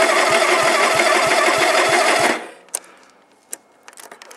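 John Deere tractor's engine being cranked over by its electric starter in a cold start on full choke, turning slowly at about three compression strokes a second without catching, on a weak battery. The cranking stops about two seconds in, leaving a few faint clicks.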